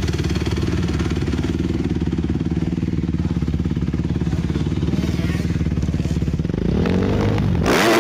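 Motocross bike engine idling steadily with an even pulsing beat, then revved hard near the end, its pitch climbing quickly.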